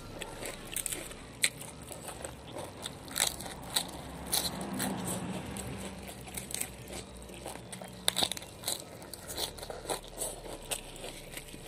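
Close-up crunching and chewing of crisp raw lettuce leaves, with many short crackling bites scattered throughout.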